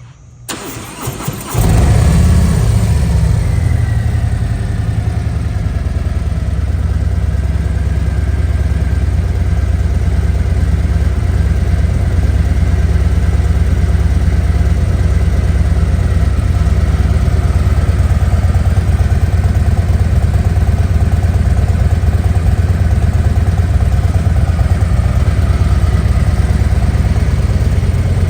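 Harley-Davidson Road Glide ST's Milwaukee-Eight 117 V-twin with slip-on mufflers being started: about a second of cranking on the starter, then it catches and settles into a loud, steady idle.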